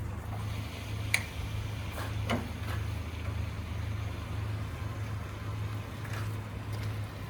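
Logging truck's diesel engine running with a steady low hum, with a sharp click about a second in and a fainter knock or two around two seconds in.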